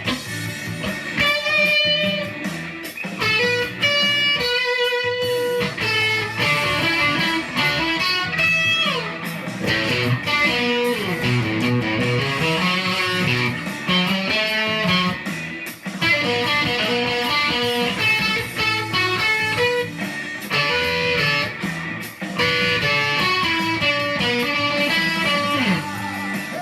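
Electric guitar solo played over a rock band's backing, a lead line of quick runs with some sliding, bent notes.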